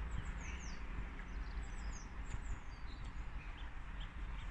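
Small garden birds chirping in quick, short falling notes again and again, over a steady low outdoor rumble.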